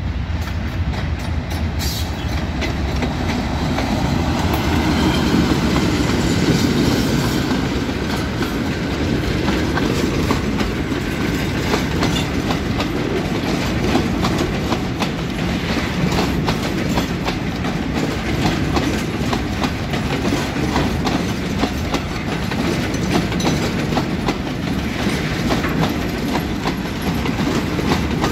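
A long freight train of rust-coloured oil tank wagons rolling past close by. There is a steady loud rumble, with the wheels clattering continually over the rail joints.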